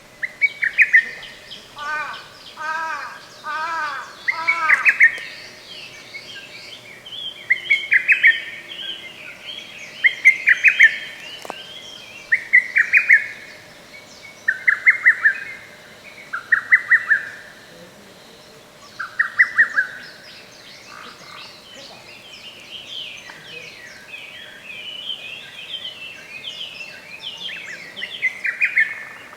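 Lesser cuckoo singing its loud, rapid staccato phrase over and over, a new phrase every two to three seconds. Other birds call too: a run of four lower repeated notes a few seconds in, and fainter, higher chatter between the phrases.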